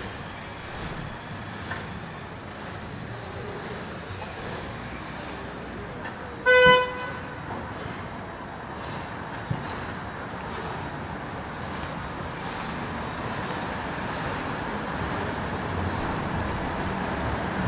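Steady road traffic running past, with a single short vehicle horn toot about six and a half seconds in.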